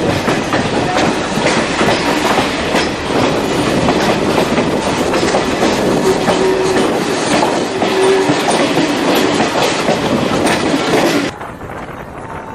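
Train running along the track, its wheels clattering over the rails with many quick clicks, and a faint squealing tone midway. The sound cuts off suddenly near the end to a much quieter background.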